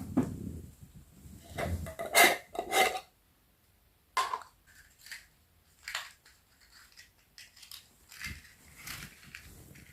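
Objects being handled: a series of separate knocks and clinks, the loudest in the first three seconds and one more about four seconds in, then lighter clicks.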